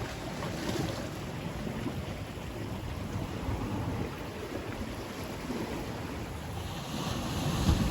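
Wind buffeting the microphone over the wash of sea waves, swelling near the end.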